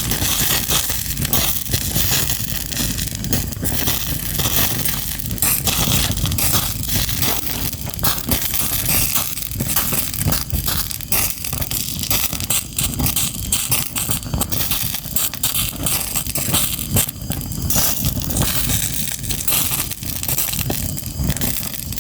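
Fire crackling: a dense, continuous run of pops and snaps over a low rumble.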